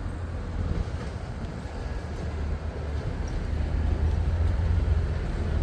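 Train pulling into the station: a steady low rumble that slowly grows louder.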